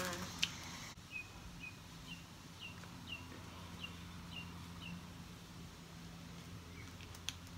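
A bird chirping: a run of short, high chirps about two a second for a few seconds, which then stops. Underneath is a faint steady low hum.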